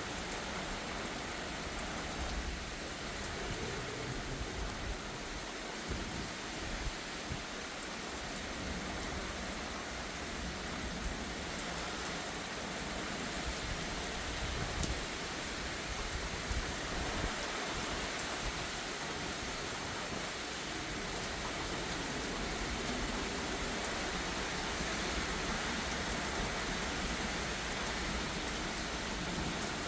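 Heavy thunderstorm rain falling steadily, an even hiss of rain on surfaces.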